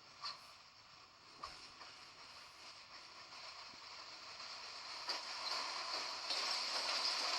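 A train approaching, its hissing rail noise growing steadily louder, with a few sharp clicks in the first seconds.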